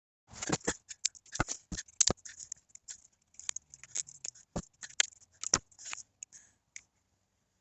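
Close-up hand work on a patch for a rubber intake boot: a run of irregular sharp clicks, snips and scrapes, stopping a little before the end.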